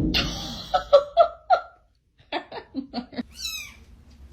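A cat making a series of short, quick meows and chirps, with a higher squeaky call near the end.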